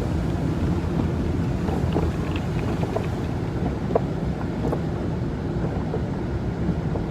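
Automatic car wash running over the car, heard from inside the closed cabin: a steady low rumble with a few faint ticks.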